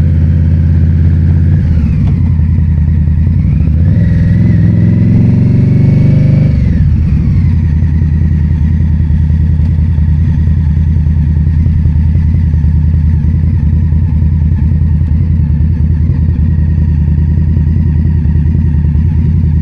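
Motorcycle engine running, its pitch rising for a few seconds from about two seconds in and dropping off sharply near seven seconds, then running steadily.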